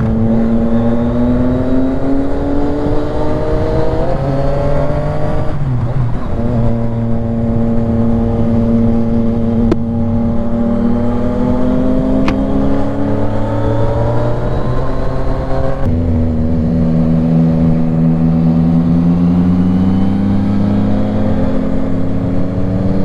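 Motorcycle engine heard from the rider's seat while riding, its pitch climbing slowly as it pulls. The pitch dips about five and a half seconds in and drops again at about sixteen seconds, like gear changes or rolling off the throttle, then climbs again, with a steady rush of wind and road noise underneath.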